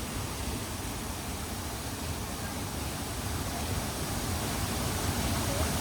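Waterfall rushing in a steady, even hiss, growing slightly louder toward the end.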